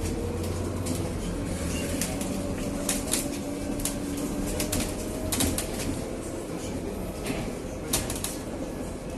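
Inside a Scania Citywide 12LF city bus while it runs: a steady drivetrain hum with faint tones that drift slightly in pitch, and many sharp clicks and rattles from the bus's interior, the loudest about three, five and eight seconds in.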